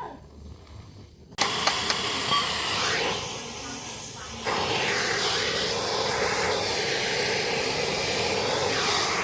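A strong, steady hiss, as of a pressurised jet, starts abruptly about a second and a half in and keeps going without a break.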